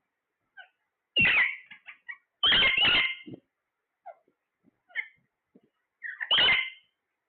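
Parrot calling: three loud, harsh squawks, one about a second in, one near the middle and one near the end, with short quiet chirps between them.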